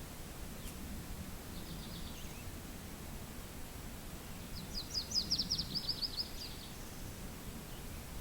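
A songbird giving two quick, high-pitched trills of rapid repeated notes, a faint one early and a louder, longer one about halfway through, over a steady low rumble of wind.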